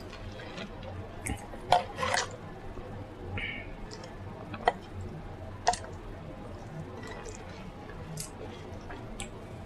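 Close-miked mukbang eating sounds: wet mouth smacking and chewing, with a few sharp smacks, the loudest about two seconds in and again around five and six seconds.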